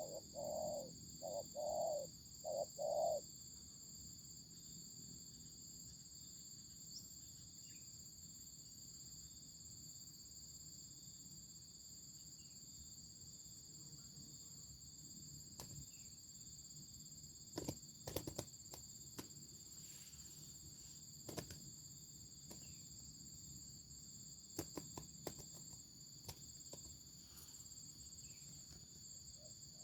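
A wild dove cooing, four short low notes in the first three seconds, over a steady high drone of insects. A few sharp clicks come later.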